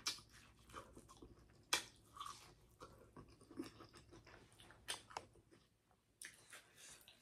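Close-miked mouth sounds of eating seafood: chewing with irregular wet clicks and smacks, the sharpest about two seconds in and again near five seconds.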